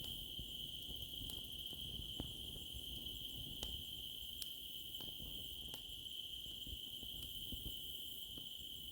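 A steady chorus of crickets trilling in one unbroken high band, with scattered sharp pops and crackles from a wood campfire about once a second.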